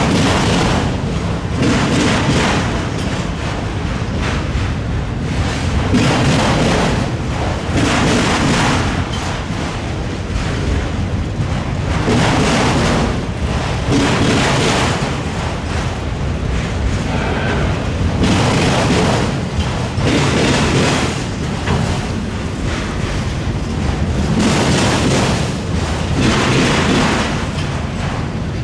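Freight train rolling slowly over a railroad diamond, its wheels pounding across the crossing frogs in heavy thuds that come in pairs about two seconds apart, a pair every six seconds or so, over the steady rumble of the passing cars.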